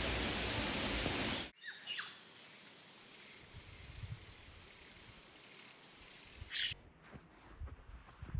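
Steady roar of a waterfall that cuts off abruptly about a second and a half in, giving way to quiet outdoor ambience with a few bird chirps and a steady high buzz, which cuts out again near the end.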